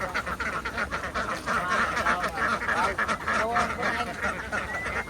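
A large flock of domestic ducks quacking together: a dense, unbroken chatter of many overlapping calls.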